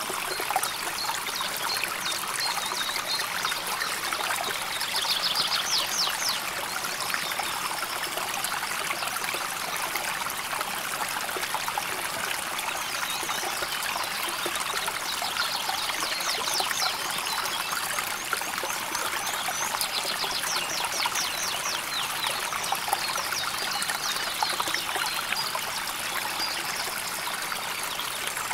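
A river flowing steadily with a babbling, trickling sound of water.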